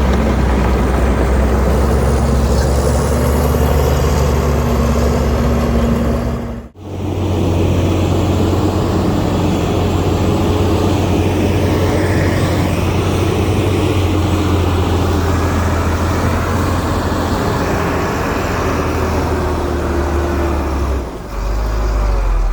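Diesel engine of heavy earthmoving machinery running steadily. About seven seconds in it cuts out for an instant and comes back with a different engine note.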